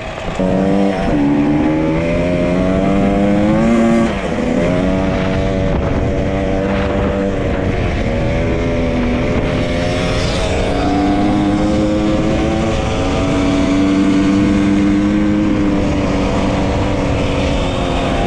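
Dirt bike engine running under way, the revs climbing and dropping a few times with gear changes, then holding fairly steady.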